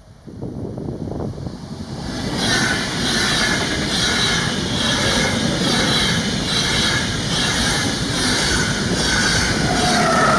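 A train passing close by at speed. It grows louder over the first two seconds, then its wheels give a steady, evenly repeating pulse about every half-second. Near the end a tone glides down in pitch.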